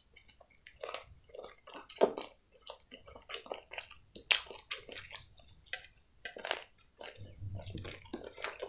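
A person biting into and chewing a hot dog in a toasted bun: irregular wet mouth sounds and soft crunches of bread, with louder bites about two seconds in and again just after four seconds.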